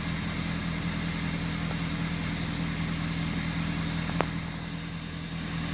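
Pickup truck engine idling steadily after an oil change, left running for a minute to circulate the fresh oil. A single sharp click about four seconds in.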